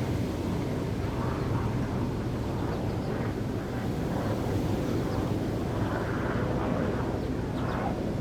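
Wind rumbling on the microphone over the wash of waves, with a steady low noise and softer swells of surf coming and going every second or two.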